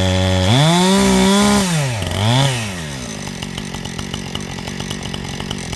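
Chainsaw running: it idles, revs up hard about half a second in and holds for about a second, drops back, gives a short second rev, then runs on at a lower steady speed.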